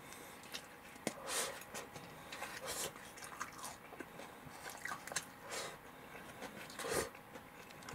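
A person chewing a mouthful of karaage fried chicken with rice and shredded cabbage, with irregular soft crunches.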